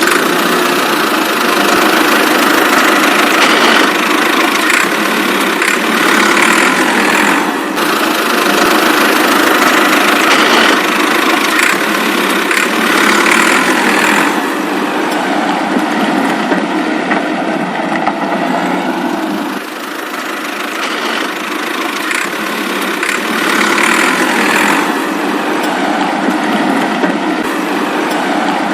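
A small motor running steadily, its level swelling and easing slightly every few seconds with a short dip about twenty seconds in.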